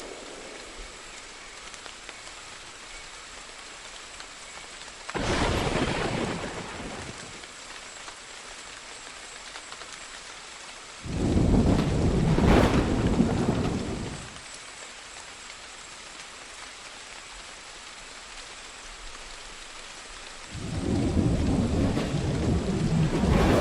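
Steady rain with rolls of thunder: one about five seconds in, a louder, longer one about eleven seconds in, and another starting near the end.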